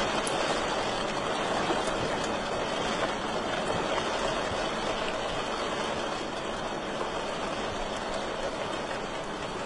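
Wood fire burning in a fireplace: a steady rushing hiss with a few faint crackles.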